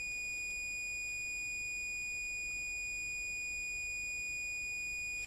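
Multimeter continuity buzzer giving one steady, high-pitched beep while the probes bridge a resistor and a board track, showing the two points are connected. It cuts off suddenly near the end.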